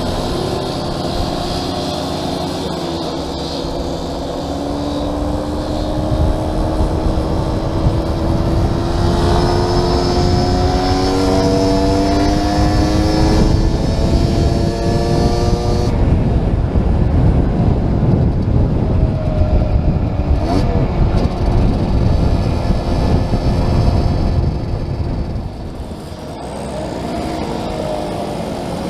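Small classic motorcycle engine under way, its pitch rising slowly as it speeds up. About halfway through, a heavy low rush of wind buffeting the helmet-mounted microphone takes over and mostly drowns the engine.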